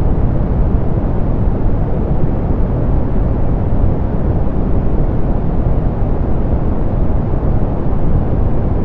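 Steady synthetic pink noise, softened so that its energy sits low and the top end is rolled off, giving an even, deep hiss with no changes.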